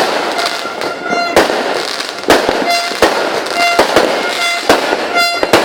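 Fireworks going off: a rapid, irregular series of sharp bangs and pops, with short steady pitched toots sounding about once a second between them.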